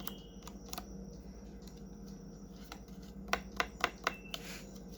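Light taps and clicks, with a quick run of four sharp clicks about three and a half seconds in, over a faint steady low hum.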